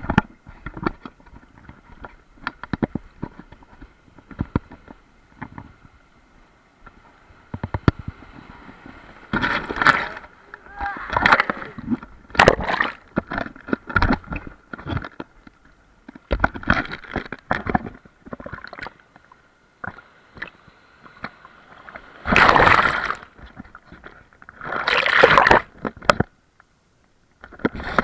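Water sloshing and splashing close to the microphone, with many short knocks and several loud gurgling bursts.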